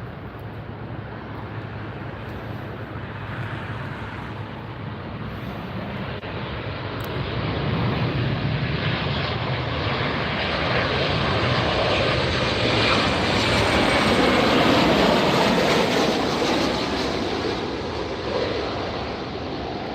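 Southwest Airlines Boeing 737 jet engines on arrival, growing louder to a peak about three-quarters of the way through and then fading as the airliner passes. A faint high whine drops in pitch as it goes by.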